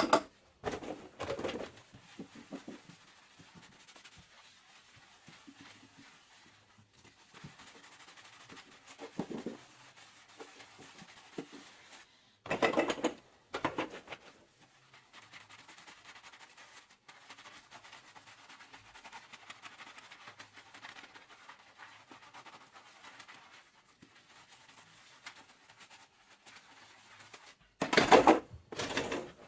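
Hand dishwashing at a kitchen sink: a few short noisy bursts of scrubbing and handling, each about a second long, with the loudest near the end, separated by long stretches of faint hiss.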